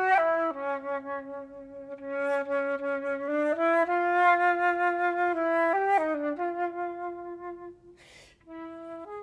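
Solo flute playing a slow melody in its low register: long held notes, a step up about three and a half seconds in, a quick turn of notes around six seconds, and a short breath near eight seconds before the line resumes.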